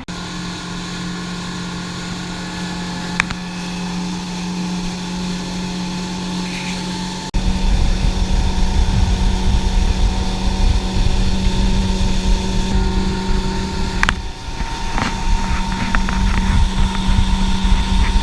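Tour boat's engine running with a steady hum. About seven seconds in, a much louder low rumble comes in on top of it and continues.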